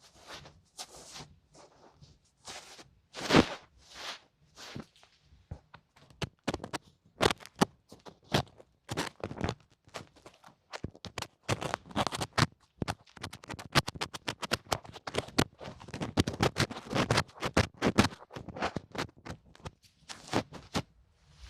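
Close-up ear-cleaning ASMR sounds: irregular scratching and scraping strokes, sparse at first and coming in a dense quick run from about halfway through.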